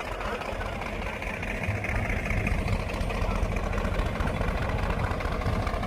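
Sonalika tractor's diesel engine running steadily at idle, throttle at zero, while it pulls a working rotavator on its own: the engine carrying the tillage load at idle speed. It gets slightly louder about two seconds in.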